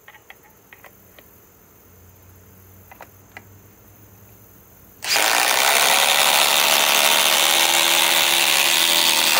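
A few light handling clicks, then about five seconds in a Milwaukee M18 cordless impact driver starts hammering as it drives screws in. It runs steadily for about four seconds and cuts off suddenly.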